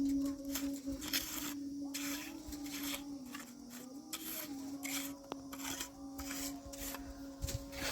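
Rhythmic rasping strokes, like hand sanding or filing, about one or two a second, over a steady humming tone that wavers slightly in pitch.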